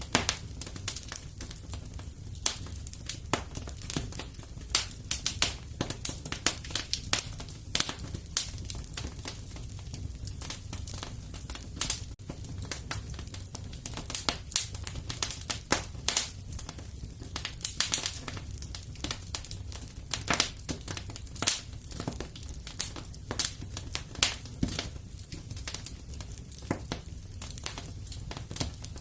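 Wood fire burning in a fireplace, crackling and popping at irregular moments over a low, steady rumble.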